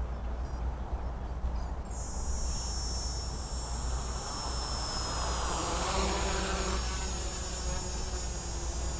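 DJI F450 quadcopter's four brushless outrunner motors and 10-inch propellers spinning up about two seconds in: a high-pitched whine of several close steady tones over a whirring propeller noise that grows louder around the middle. Wind rumbles on the microphone throughout.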